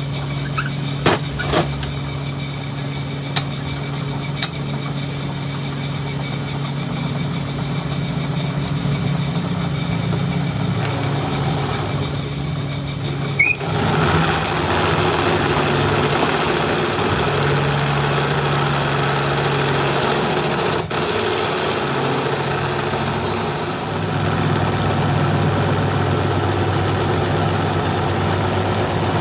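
A machine motor running steadily with a low hum, a few sharp clicks in the first two seconds, and a louder, rougher noise setting in about halfway through.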